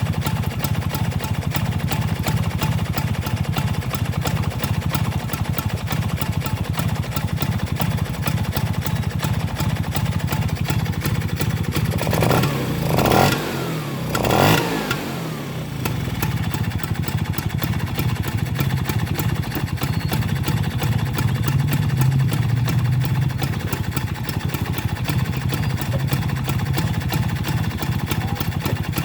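Vespa scooter engine fitted with a new intake, idling steadily, then revved twice in quick succession about halfway through before settling back to idle.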